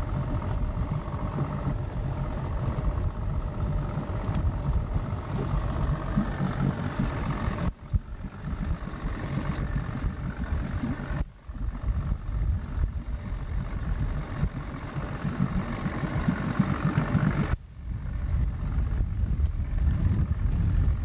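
Motorboat engine running at a low, steady idle, a continuous rumble with a steady hum. The sound drops out briefly three times.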